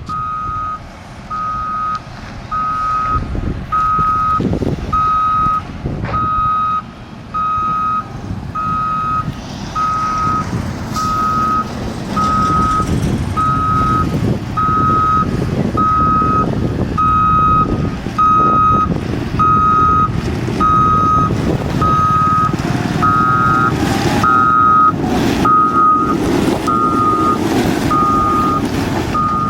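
Backup alarm of a CAT 120 motor grader beeping about once a second while it reverses, over its diesel engine running, which grows louder in the second half.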